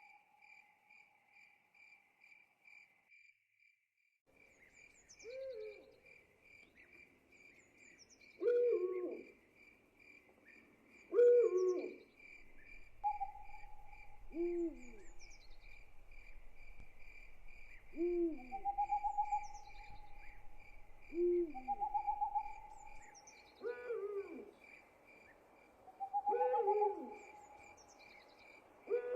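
Night soundscape: an owl hooting in short calls about every three seconds, over the steady pulsing chirp of crickets.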